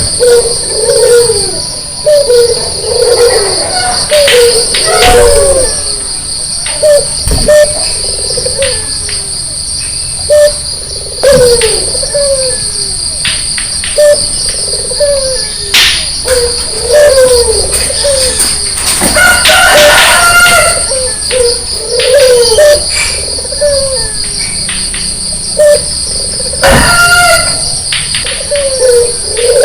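White Barbary dove (puter) cooing over and over in short repeated phrases, with a steady high insect trill behind it.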